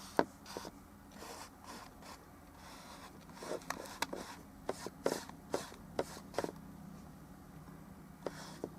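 Oil painting strokes: short, irregular scrapes and dabs of a brush working paint on the painting surface, bunched together in the middle, over a faint steady hum.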